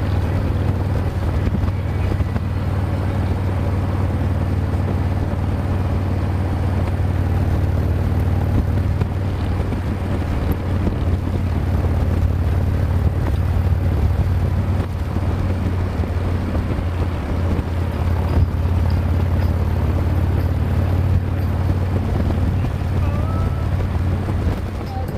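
Harley-Davidson V-twin motorcycle engine running at a steady cruising speed, a constant low drone.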